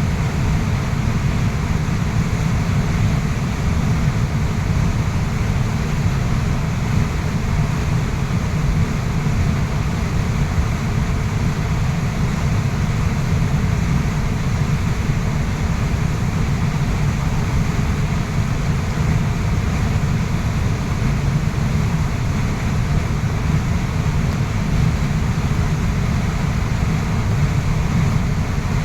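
Waterfall pouring steadily: a dense, even rush of water, heaviest in the low rumble.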